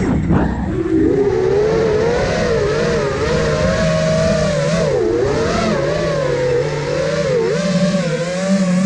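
Brushless motors and 5-inch propellers of an iFlight Nazgul Evoque F5 FPV quadcopter in flight, a buzzing whine that rises and falls in pitch with the throttle. The throttle drops sharply and comes back at the very start, and there are further dips about five seconds in and near the end. Wind noise rumbles underneath.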